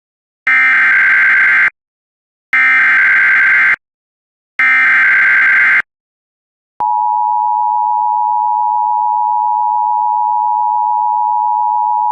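NOAA Weather Radio emergency alert: three identical bursts of the warbling digital SAME header code, each about a second long, then the steady single-pitch 1050 Hz warning alarm tone starting about two-thirds of the way in. Together they signal the broadcast of a severe thunderstorm warning.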